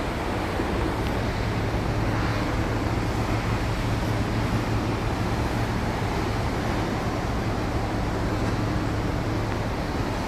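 Car driving at steady speed: a constant low engine drone with road and tyre noise.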